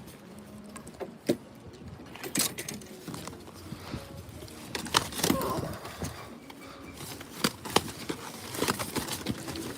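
Scattered short clicks and knocks at irregular intervals, with a brief muffled voice about five seconds in.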